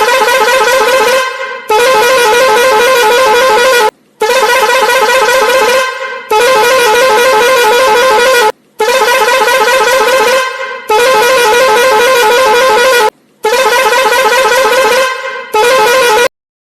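A horn honking in long blasts, about eight in a row of around two seconds each with brief gaps between them, its pitch wavering slightly.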